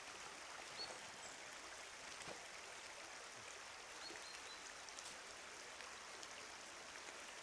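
Faint steady rush of running water from a small stream or brook.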